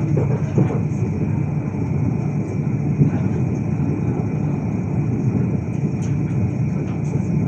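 Steady low rumble of a moving vehicle, even throughout with no distinct knocks or changes.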